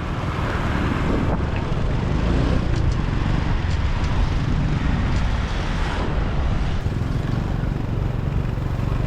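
Motorbike riding through city traffic: a steady low rumble of engine and road noise with wind buffeting the microphone.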